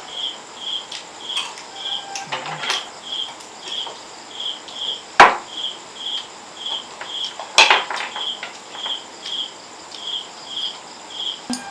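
Cricket chirping steadily, about two short high chirps a second. Over it come sharp knocks, the loudest about five seconds in and another about two and a half seconds later, with some lighter clatter around two seconds in.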